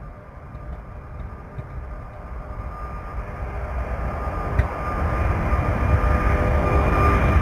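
Airbus A380's four jet engines at takeoff thrust: a deep rumble that grows steadily louder, with a steady high whine on top.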